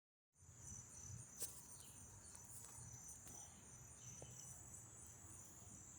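Near silence: faint background tone with a steady high-pitched ringing and a light click about a second and a half in.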